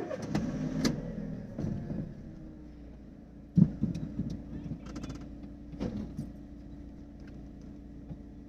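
A car engine running steadily, heard from inside the cabin, with a few clicks and knocks of handling on top; the loudest knock comes about three and a half seconds in.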